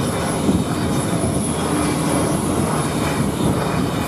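A diesel multiple-unit train passing close by at a level crossing: engine drone mixed with the noise of its wheels on the rails, holding at a steady level.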